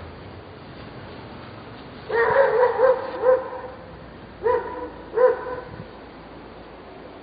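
A dog barking: a quick run of four or five barks about two seconds in, then two single barks.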